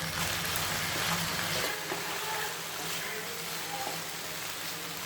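Chicken in onion-tomato masala sizzling in a frying pan, with a steady hiss. A low hum underneath stops about a second and a half in.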